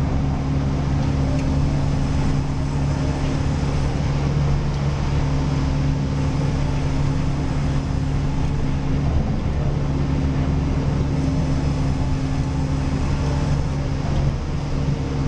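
A steady engine-driven machine drone with an unchanging low hum, typical of sawmill machinery running.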